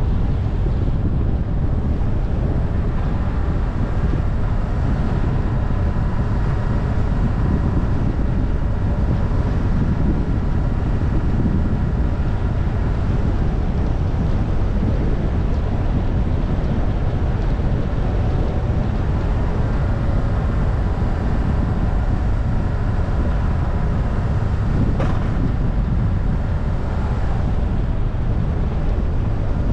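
Wind buffeting a bonnet-mounted camera microphone on a moving car, with the Subaru Forester's CB18 turbo flat-four faintly whining beneath it as it engine-brakes downhill in a paddle-selected CVT gear, off the throttle. A single sharp click about 25 seconds in.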